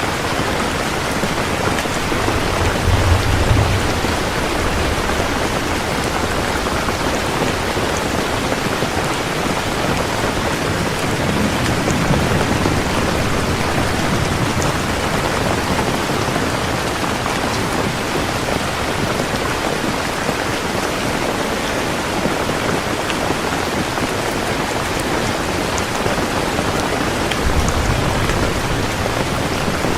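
Heavy rain falling steadily, a dense, even hiss. Brief low rumbles swell up three times: near the start, about halfway, and near the end.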